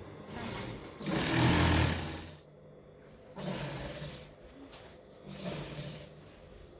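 Sewing machine stitching in three short runs, starting and stopping between them; the first run, about a second in, is the loudest and longest.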